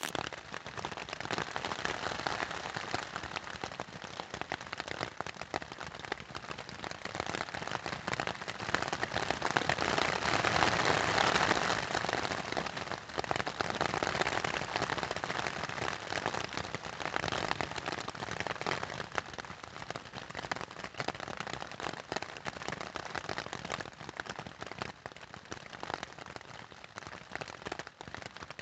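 Rain falling on a tent: a dense, even patter of drops that grows heavier around the middle and then eases a little.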